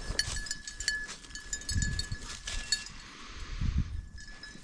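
Small bell on a hunting dog's collar jingling in quick irregular clinks as the dog moves, with a couple of dull low bumps underneath.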